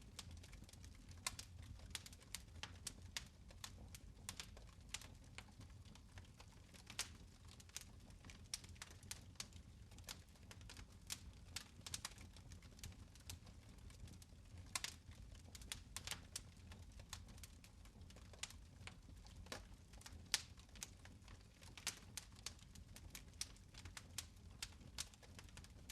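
Fire in a fireplace crackling and popping, with many irregular sharp snaps over a low steady rumble.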